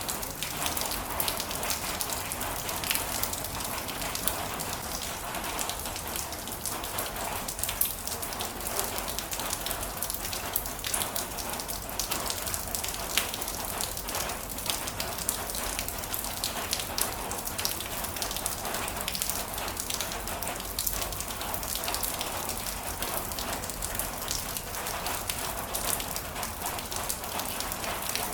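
Heavy rain falling steadily, a dense hiss of drops with many sharp individual drop ticks on a surface.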